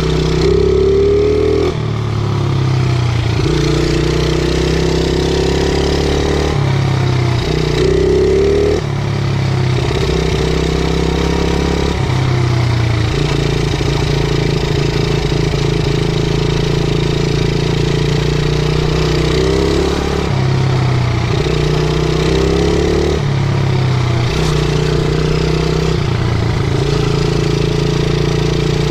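50cc pit bike engine running under a rider, its revs rising and falling again and again as the throttle is worked, with several short climbs in pitch.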